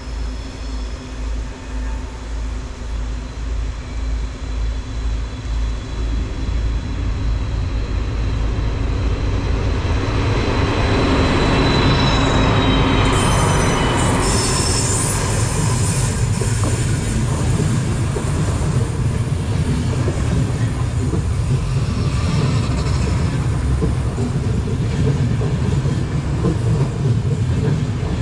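Diesel train passing, growing louder to a peak about twelve seconds in, with a brief high wheel squeal, then a steady low rumble of wheels on the rails.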